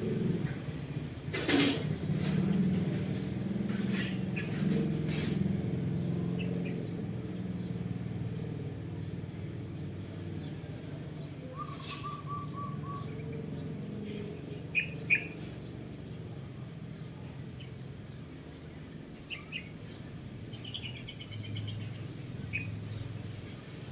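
Birds chirping in short, scattered calls over a steady low rumble, with a few sharp clicks.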